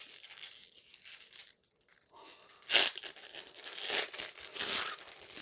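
A trading card pack's wrapper being torn open and crinkled, in several short crackling rips, the loudest about three seconds in.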